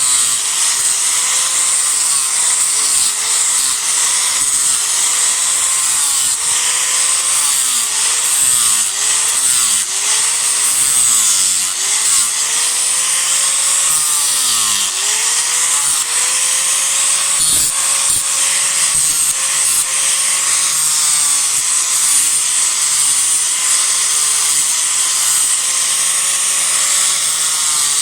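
Disc grinder grinding into a cedar block during rough carving, loud and continuous, with a harsh high hiss. Its motor pitch sags and recovers again and again as the disc bites into the wood, holding steadier in the second half.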